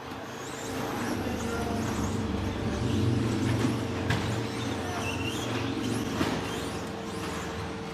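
Several 13.5-turn brushless electric RC stadium trucks racing offroad: the motors whine up and down in pitch as the trucks accelerate and brake, with a few sharp clacks from landings or hits. Under them runs a steady low rumble and a steady hum.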